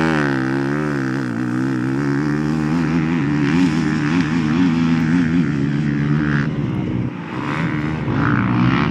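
Motocross bike engine under hard throttle just after a practice start, its note rising and falling as the rider works the throttle and gears, with a brief drop about seven seconds in before it pulls again.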